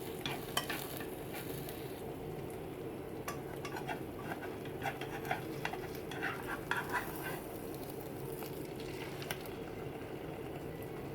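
Food sizzling in a frying pan over a steady low hum, with a utensil clinking and tapping against the pan several times during the first seven seconds or so.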